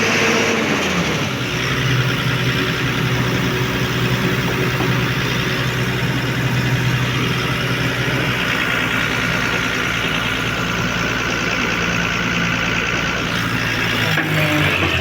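Heavy diesel engine running steadily, with a short drop in pitch about a second in and a change in note near the end.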